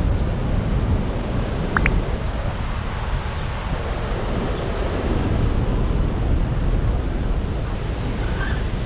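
Steady roar of Horseshoe Falls at Niagara, a dense rushing noise weighted to the low end. A short high chirp cuts through about two seconds in.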